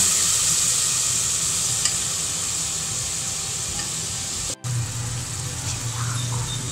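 Tomato-and-onion masala sizzling in an aluminium pot as a steel ladle stirs and scrapes through it, just after a spoonful of water has gone into the hot masala. The hiss eases off gradually, and there is a brief dropout about four and a half seconds in.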